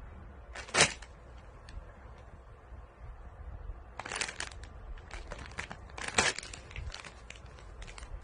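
Several short, sharp crinkling noises: a loud one about a second in, then clusters around four and six seconds.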